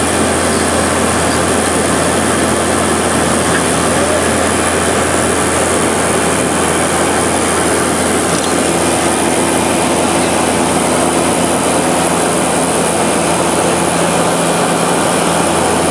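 Seaplane's propeller engines heard from inside the cabin during the landing approach: a loud, steady drone with a constant low hum.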